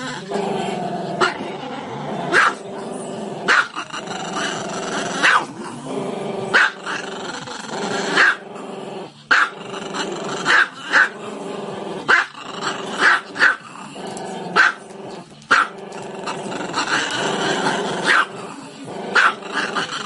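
Small black-and-tan dog with its muzzle raised, making a drawn-out growling vocalization broken by short sharp barks, about one a second at an uneven pace.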